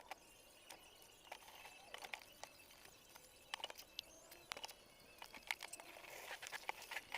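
Faint, scattered clicks and knocks of a baby bottle being handled and scrubbed during washing, growing busier near the end.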